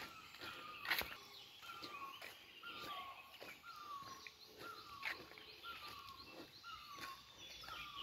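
Small birds calling: a short, falling note repeated about twice a second, over scattered higher chirps. Two sharp clicks stand out in the first second or so.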